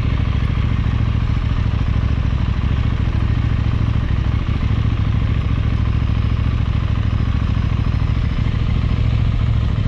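KTM motorcycle engine running steadily at an even pitch, with no revving.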